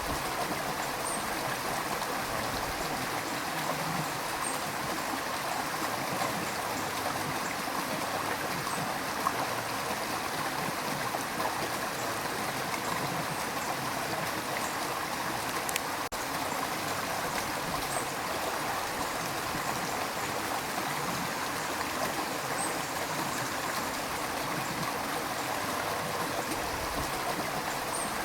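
River water rushing and gurgling in a steady, even flow.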